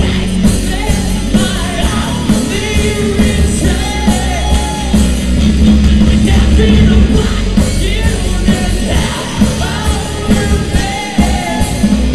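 Live post-hardcore rock band playing loudly, with a singer's voice, at times yelled, over the full band.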